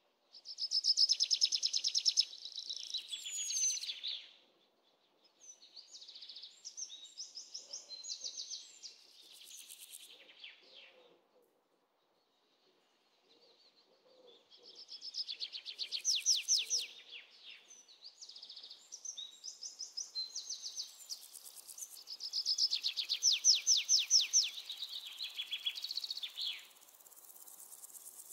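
Birdsong: bursts of fast, high-pitched chirping trills a few seconds long, separated by short near-silent pauses.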